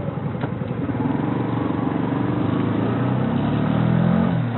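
Kawasaki Rouser NS125 FI's single-cylinder fuel-injected engine running under way. Its note climbs about three seconds in and dips briefly near the end.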